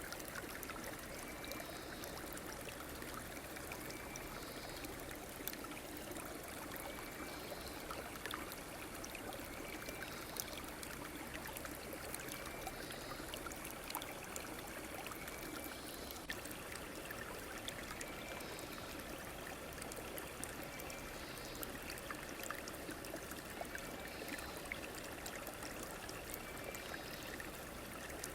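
A river or stream running steadily, with a constant rush of water and small splashes. A faint short high call repeats about every three seconds over it.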